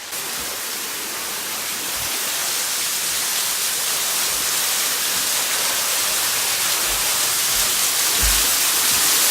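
Waterfall rushing: a steady hiss of falling water that grows slowly louder, with a few low bumps on the microphone near the end.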